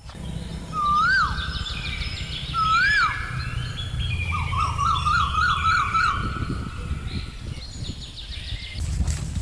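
Birds calling outdoors: two short whistles that rise and then fall, then a quick warbling trill, over a steady low rumble.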